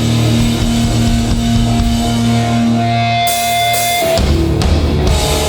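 Hardcore punk band playing live: distorted electric guitars and bass holding heavy chords over drums, with the chord changing about four seconds in and cymbal crashes near the end.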